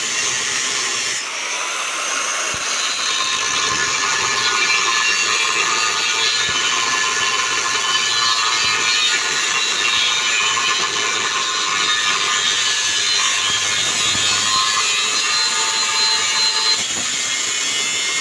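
Power tool running continuously under load, with a steady high-pitched noise.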